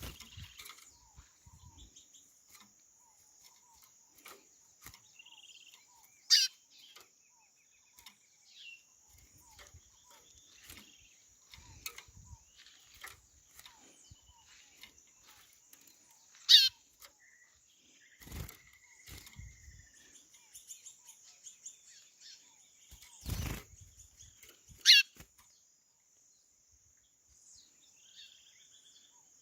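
White-bellied seedeater (chorão) calling: three loud, short whistles sliding sharply downward, about ten seconds apart, with fainter chirps between. A steady high hiss runs underneath, and two dull thumps come in the second half.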